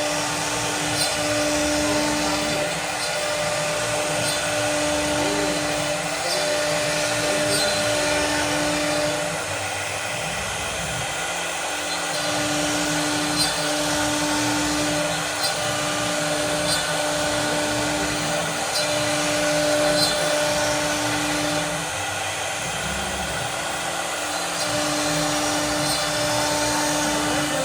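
CNC machine cutting: a steady hiss of the running machine with a humming motor tone that breaks off and comes back every second or two.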